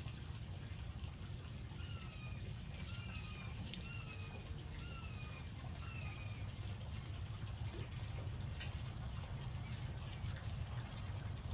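A bird calling: a run of short whistled notes, each dropping in pitch, about one to two a second, stopping after about six seconds. Under it is a steady low rumble.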